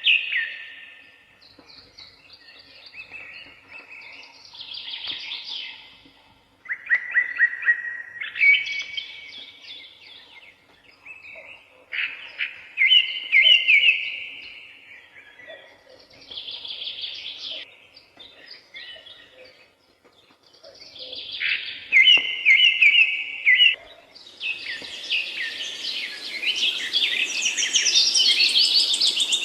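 Woodland songbirds singing in short, separate phrases with pauses between them. Near the end, a denser, unbroken stretch of song takes over.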